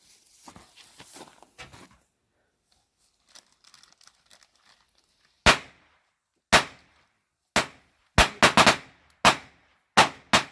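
Fireworks going off. It opens with a hiss and crackle for about two seconds, then about ten sharp bangs come at irregular intervals over the last five seconds, several in quick succession.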